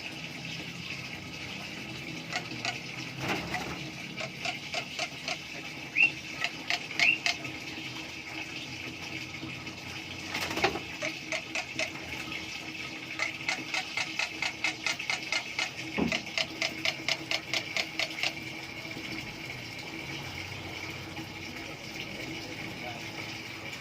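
Black-winged myna (jalak putih) calling in rapid runs of short clicking, chattering notes, with a couple of short rising whistles about six and seven seconds in. The calling comes in bouts and falls quiet for the last few seconds.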